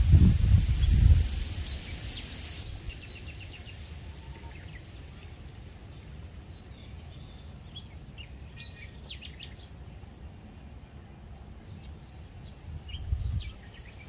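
Small birds chirping in short high calls, thickest in the middle, over faint open-air ambience. A low rumble sits under the first second, and a brief one comes again near the end.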